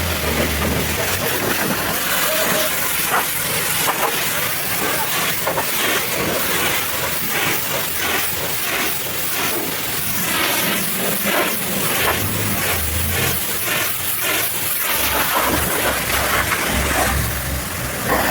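High-pressure washer jet spraying water onto a muddy truck: a loud, steady hiss of spray, with a low hum that comes and goes.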